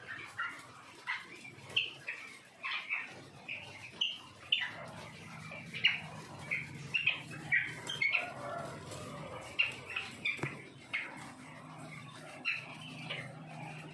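Quail chirping busily, many short calls a few times a second, over a low steady hum.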